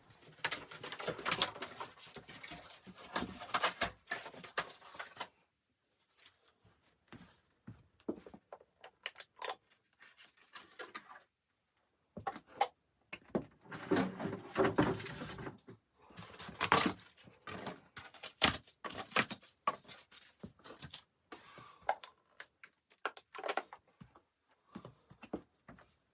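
Irregular rustling and knocking in bursts of a few seconds, with sharp clicks scattered between, in a small room.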